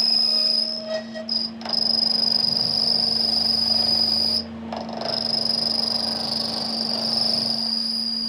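A steady, high-pitched insect trill that breaks off briefly twice, over a constant low hum.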